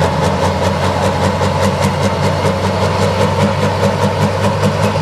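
Tractor engine idling steadily, with a regular ticking running through it.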